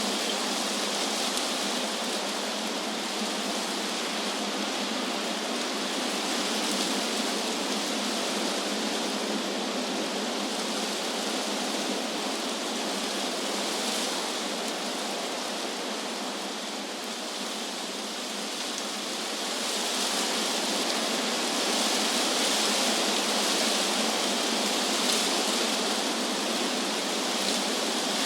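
Wind blowing through trees: a steady rustling hiss of leaves that eases off a little past the middle, then swells again in gusts.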